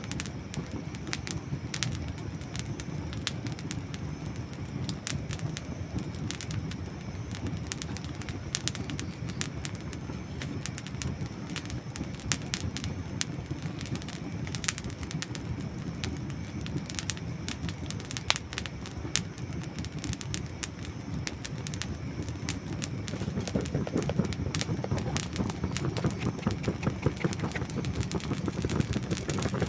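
Dry wood burning in a campfire, crackling with many sharp irregular pops and snaps over a low steady rush of flame. The crackling grows louder and busier in the last several seconds.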